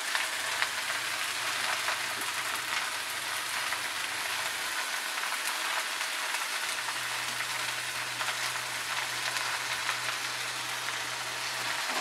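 Red amaranth leaves sizzling and crackling steadily in hot oil in a kadhai, just added over fried onion.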